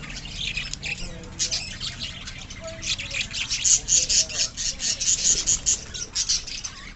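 A colony of lovebirds chattering with rapid, shrill squawks and chirps in a dense, overlapping stream, busiest from about three to six seconds in.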